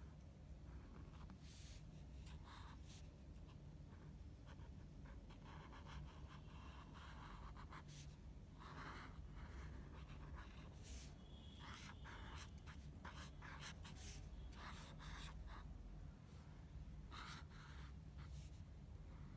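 Faint, irregular scratching of a drawing tool on paper: short strokes of varying length as a sketch is drawn, over a low hum.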